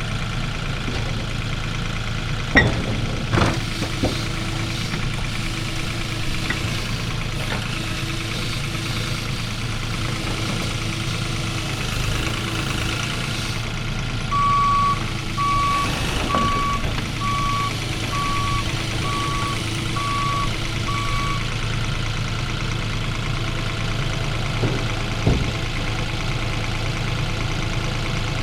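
Diesel engine of a piece of heavy equipment running steadily, with a few sharp clanks near the start and near the end. Midway through, its reversing alarm beeps about eight times, roughly once a second.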